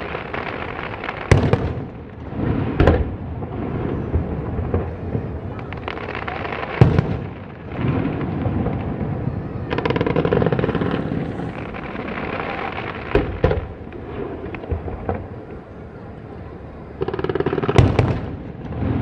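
Fireworks display: aerial shells bursting with sharp bangs every few seconds, about five big ones, with crackling and rumbling between.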